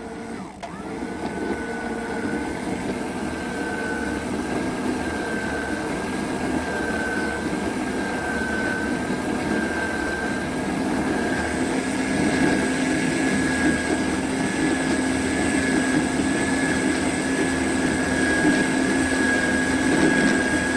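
Electric cockpit winch on a Shannon 53 motorsailer running under load, hauling in the genoa sheet to unroll the genoa off its roller furler. It gives a steady motor whine that starts about a second in, wavers slightly at first, and grows a little louder from about halfway as the sail fills.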